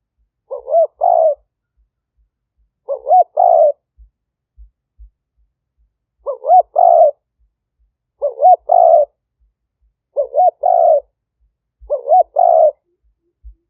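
Spotted dove cooing: six two-part coo phrases about two seconds apart, each a short rising note followed by a longer one.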